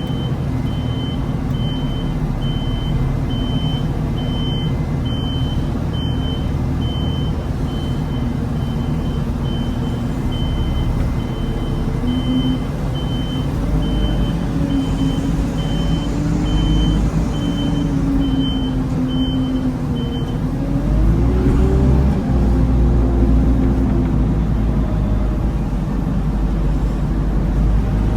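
Diesel telehandler engine running and changing pitch as it works, with its reversing alarm beeping steadily about twice a second until it stops about two-thirds of the way through; the engine then revs up and gets louder.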